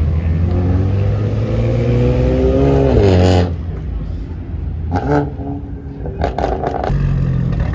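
Performance car engine revving up under hard acceleration, its pitch climbing steadily for about three seconds before cutting off suddenly. It is followed by a few short, sharp bursts over a steady low drone.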